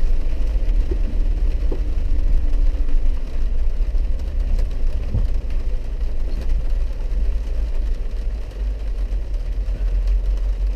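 Steady low rumble of a Jeep's engine heard from inside the cabin, with a few faint knocks.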